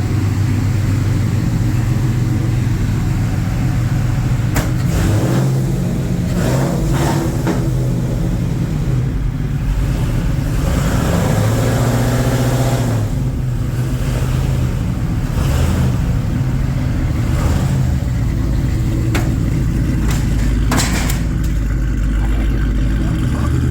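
Car engine running, revved up and back down once about halfway through, with a few short sharp noises over it.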